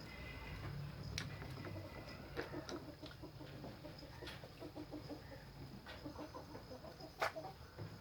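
Chickens clucking softly in short, repeated notes, with a few sharp clicks, the loudest near the end.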